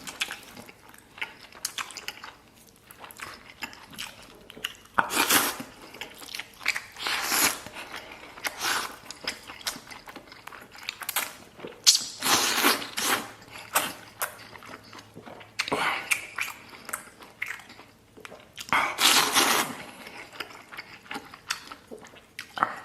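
A man eating close to the microphone, chewing mouthfuls of chili-topped lamb, with several louder noisy bursts of mouth sounds between quieter chewing.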